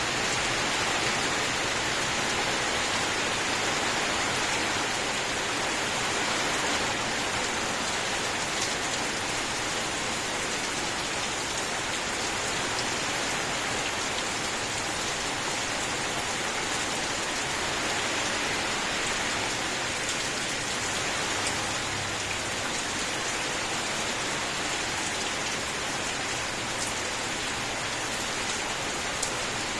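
Steady rain falling: an even, dense hiss with a few faint, sharper drop ticks.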